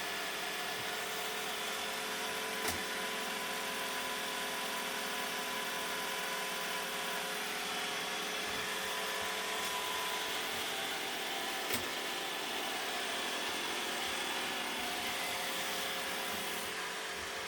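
A small electric motor running steadily with a constant hum and hiss. Two sharp clicks come through, one a few seconds in and one about two-thirds of the way through.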